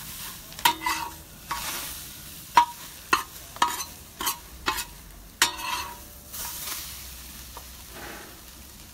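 Scrambled eggs sizzling in a hot pan on a propane gas cooker while a spatula stirs and scrapes them, giving a string of sharp scrapes and knocks against the pan over a steady frying hiss.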